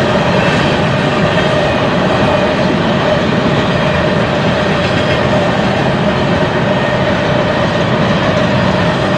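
Freight train rolling past close by: a loud, steady rush of wheels on rail with a steady whining tone running through it.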